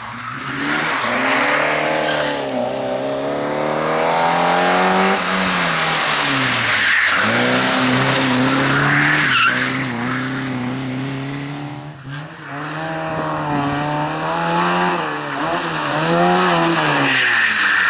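Competition car engine driven hard on a test track, its pitch climbing and then dropping sharply several times as it shifts gear and lifts for corners, with tyres squealing at times.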